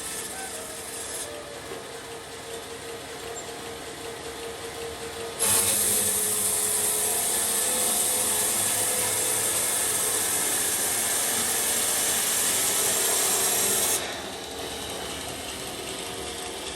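A sawmill saw running, then cutting through wood: about five seconds in the sound jumps to a much louder, steady cutting noise that lasts about eight seconds before dropping back to the saw running free.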